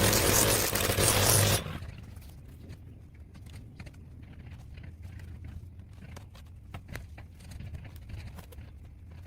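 A lawn-care machine's small engine running with a steady low hum, cutting off abruptly about a second and a half in. A much quieter low hum follows, with scattered light clicks and taps.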